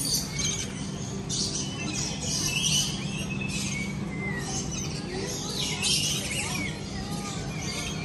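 Birds calling in repeated bursts of chirps and squawks, roughly once a second, over a steady low hum.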